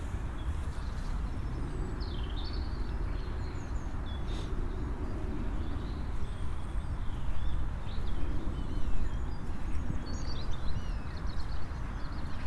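Small birds calling with short rising and falling chirps over a steady low outdoor rumble.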